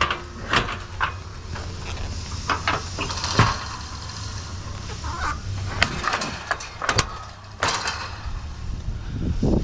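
Irregular knocks and clatters, a few louder ones near the middle and end, over a steady low engine rumble.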